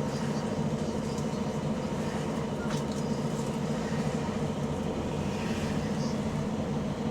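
Diesel engine of a Volvo B9TL double-decker bus running steadily under way, with an exhaust leak.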